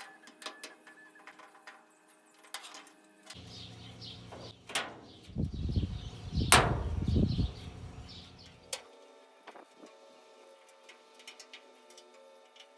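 Clicks and clanks of metal furnace parts being handled and taken apart, with a stretch of low rumbling handling noise in the middle and two sharp knocks.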